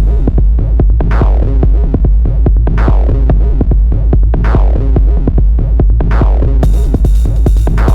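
Electronic techno groove generated with the Dyad modular synth: a steady deep bass under a fast ticking drum-machine pattern, with a falling filter sweep repeating about every second and a half. Near the end a high hissing hi-hat layer comes back in.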